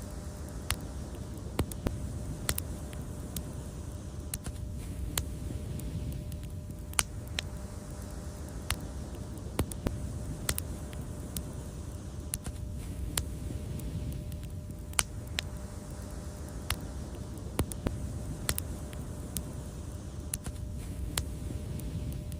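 Wood fire crackling: irregular sharp pops and snaps, a few a second, over a steady low rumble of burning.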